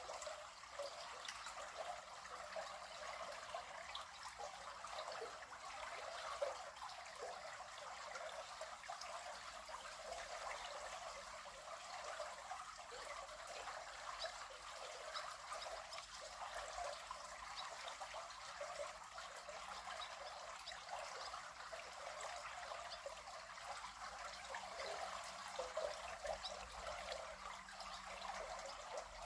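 River water flowing, a steady babbling and trickling.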